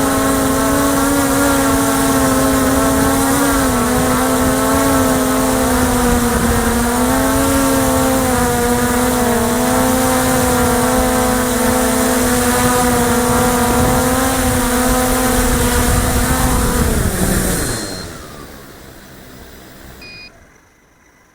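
Electric motors and propellers of an X8 coaxial octocopter humming steadily, the pitch wavering a little as the motors adjust. About seventeen seconds in the pitch drops and the sound dies away as the motors spin down.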